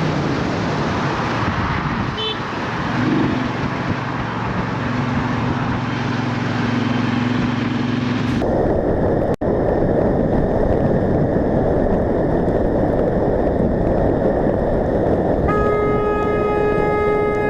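Wind and road noise rushing over a motorcycle rider's camera, changing abruptly about halfway through. Near the end a vehicle horn starts and is held on one steady note.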